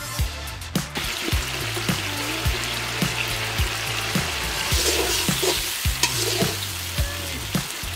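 A spice gravy with tomatoes sizzling and frying in an iron karahi while a metal ladle stirs and scrapes through it, the sizzle strongest in the middle. Background music with a steady beat plays underneath.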